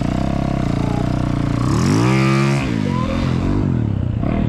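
Snow bike engine running at low speed, then revved once about halfway through, its pitch climbing quickly and falling back to a low putter.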